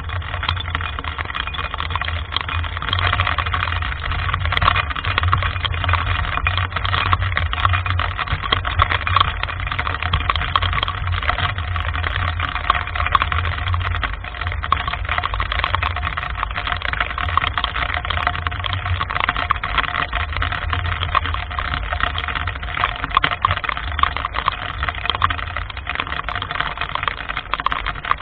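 Heavy rain with many fine drop ticks and strong wind, the gusts making a low rumble on the microphone.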